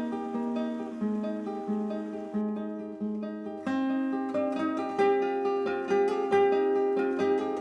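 Acoustic guitar music: picked notes in a gentle pattern, growing louder and fuller a little past halfway.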